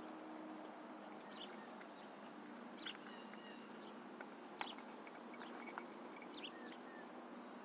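Birds chirping faintly in short, scattered calls over a steady low hum and hiss.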